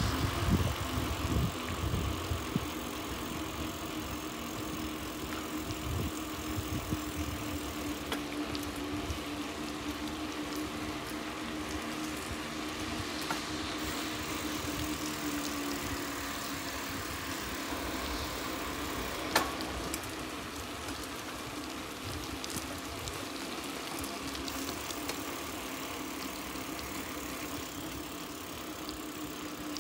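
Car engine running steadily, a low hum that drops slightly in pitch about halfway through, with one sharp click a little after the middle.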